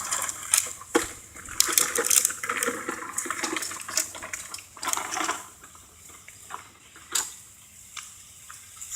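Clattering and scraping of metal as a push mower is dragged out of a pile of equipment. The knocks and scraping are busy for the first five seconds or so, then thin out to a few scattered knocks.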